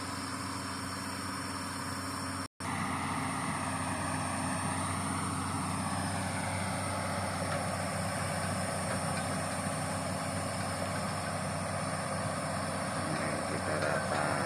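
Crawler excavator's diesel engine running steadily as the machine tracks across muddy swamp ground, with a wavering high whine for a few seconds about three seconds in. The sound cuts out for an instant about two and a half seconds in.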